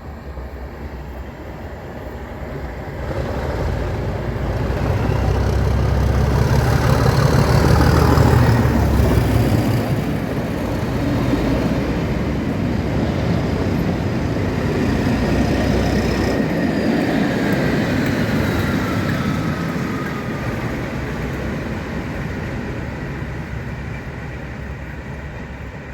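A Network Rail test train passing through the station: its rumble builds, is loudest about eight seconds in, then slowly fades. In the second half a thin high whine slides down in pitch over the rumble.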